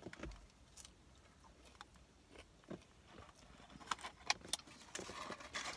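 Quiet eating sounds: faint scattered clicks and rustles, with a short cluster of sharper clicks about four seconds in.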